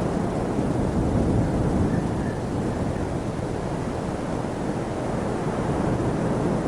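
Waterfall: a steady, deep rush of falling water with no breaks.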